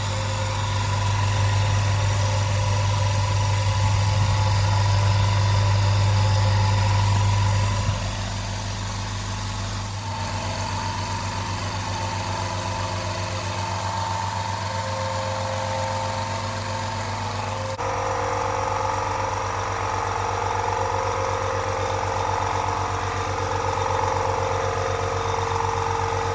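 SIP QT100/10 low-noise air compressor running steadily as it fills its tank, a constant motor hum. The level drops slightly about eight seconds in, and the tone changes about eighteen seconds in.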